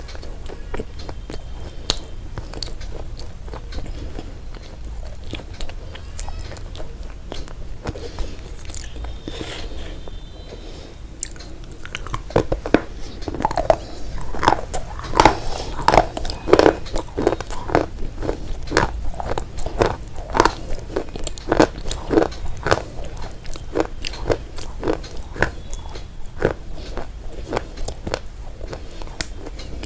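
Crunchy food being bitten and chewed close to the microphone. Soft crackling chews build to loud, rhythmic crunches about twelve seconds in, roughly two a second, which ease off near the end.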